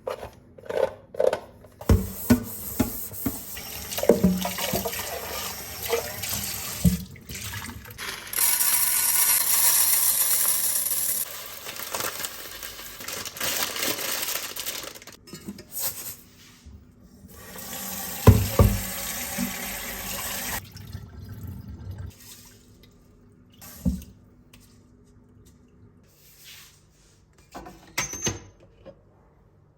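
Kitchen tap running into a sink, gushing harder for about three seconds in the middle, with knocks and clinks of things handled under the water; the water shuts off about two-thirds of the way through, leaving a few light knocks.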